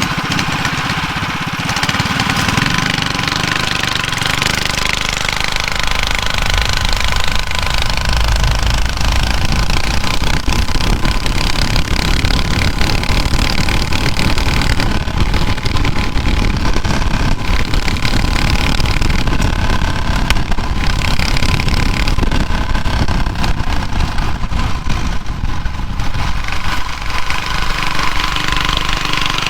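Small engine of a drag-racing mini bike running loud and continuous as the bike is ridden.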